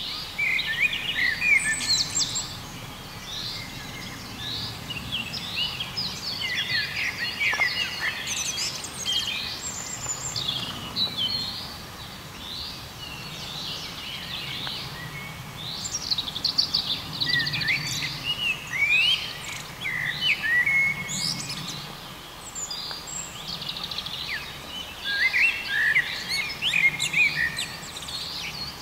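Chorus of several songbirds singing, a dense run of short chirps and trills from many birds at once, over a faint low rumble.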